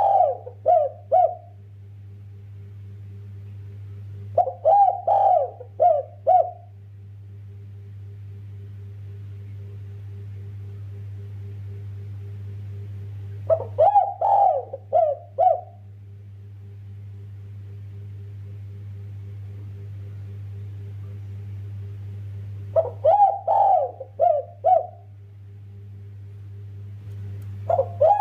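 A derkuku (spotted dove) cooing: phrases of about five quick coos, each phrase about two seconds long, repeated every five to nine seconds, with a steady low hum behind.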